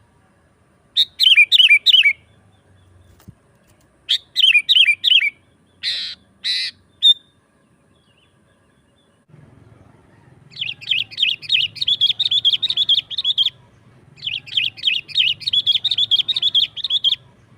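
Sooty-headed bulbul calling energetically: two phrases of four quick falling whistled notes, then two short harsh notes, then two long runs of rapid chattering notes in the second half.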